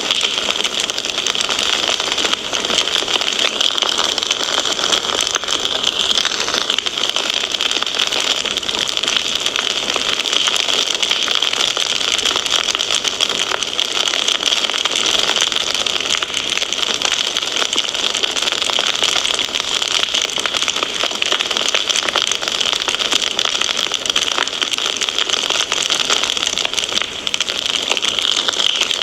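Wood fire crackling steadily: a dense run of small pops and snaps over a continuous hiss.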